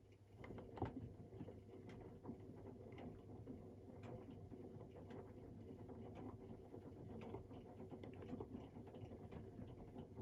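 AEG Protex Plus front-loading washing machine's drum turning at low speed, wet laundry tumbling and pattering inside over a steady motor hum. It starts just after the beginning and stops abruptly near the end.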